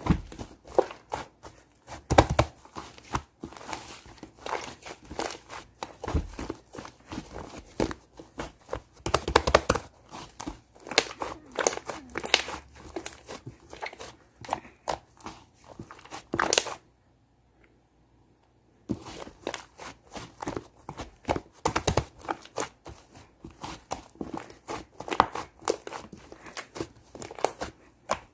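Shaving-foam (fluffy) slime being squeezed, poked and stretched by hand, giving a dense run of small crackling pops and squishes. There is a break of about two seconds of near silence a little past the middle.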